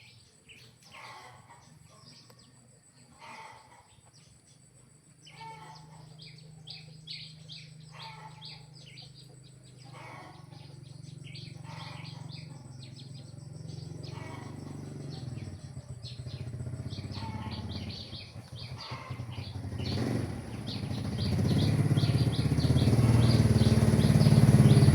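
Birds chirping in short calls repeated again and again. A low rumble sets in about a fifth of the way through and grows steadily louder until it is the loudest sound near the end.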